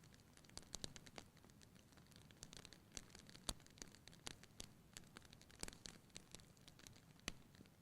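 Wood fire burning in a fireplace, crackling with irregular sharp pops and snaps over a faint low hiss.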